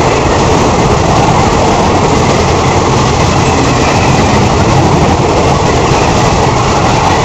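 Indian Railways passenger train passing close by, its coaches making a loud, steady rolling rumble throughout.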